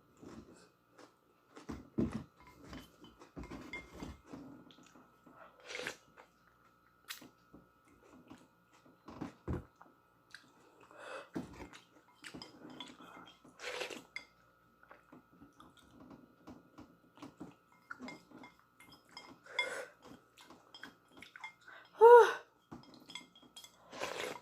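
Someone eating noodles: intermittent chewing and mouth sounds with occasional clinks of utensils against a dish. A short hummed vocal sound about 22 seconds in is the loudest moment.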